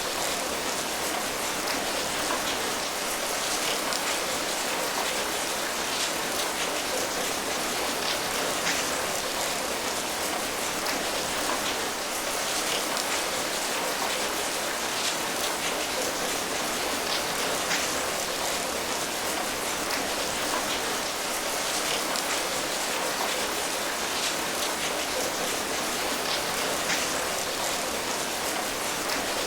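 Steady rain falling, an even dense hiss with many small drop taps scattered through it.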